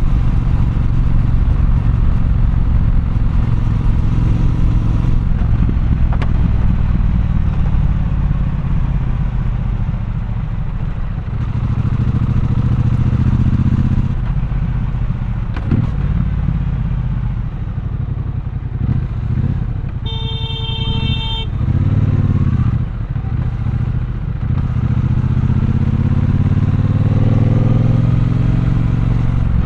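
Triumph Bonneville Bobber's 1200 cc parallel-twin engine running in city traffic, its revs rising and falling as the rider shifts and accelerates. A horn sounds briefly about twenty seconds in, and the engine revs up again near the end.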